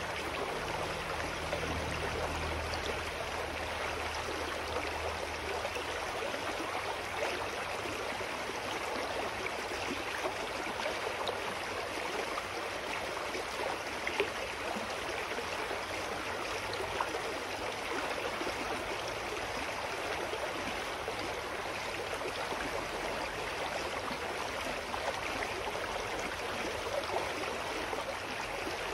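Clear mountain stream flowing, a steady, even rush and babble of water.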